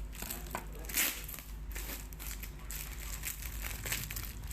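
Packaging of a boxed fishing reel being handled and opened: irregular rustling and crackling, loudest about a second in.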